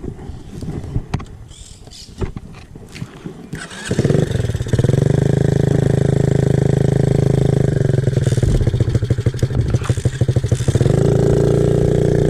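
A few knocks and rustles, then about four seconds in a small pitbike engine starts and runs loudly and steadily, its pitch shifting slightly a couple of times.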